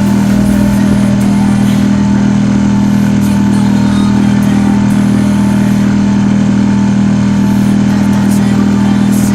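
Marlin 5 hp four-stroke outboard motor running at a steady speed, pushing the boat along, its note holding constant.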